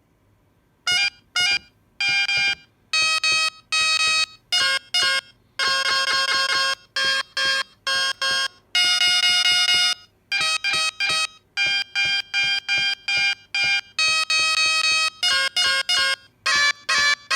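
Bagpipe chanter samples triggered in short, abruptly cut bursts, stuttering in a choppy rhythm, with a few longer held notes in the middle. They start about a second in.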